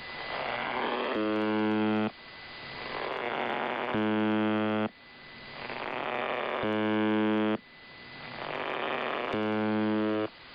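UVB-76, "The Buzzer", Russian shortwave radio station, sending its buzz tone four times, each buzz about a second long and coming roughly every three seconds. Between buzzes the receiver's static hiss swells up.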